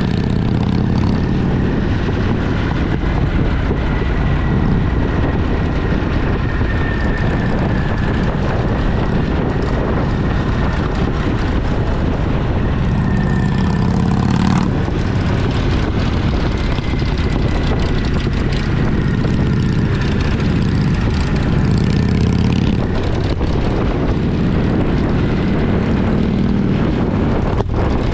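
Motorcycle engine running steadily while riding, with heavy wind rush over the camera microphone.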